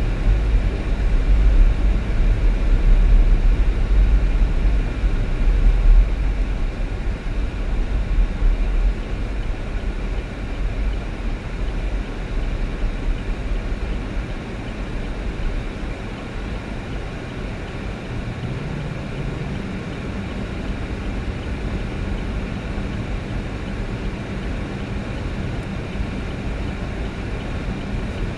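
A vehicle driving along a road: steady engine and road noise with a heavy low rumble that eases after about nine seconds.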